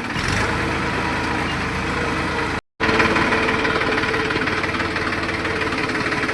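Tractor diesel engine running steadily, with a brief gap of silence about two and a half seconds in.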